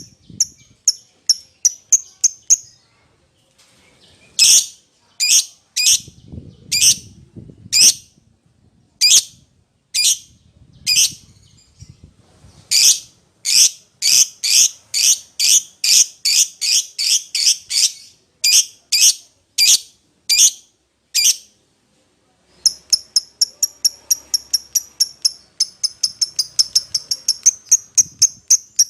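Lovebird giving shrill, high-pitched calls to a companion or rival: a quick run of short chirps, then louder sharp calls about two a second that speed up into a fast series midway, and after a brief pause a rapid chatter of chirps.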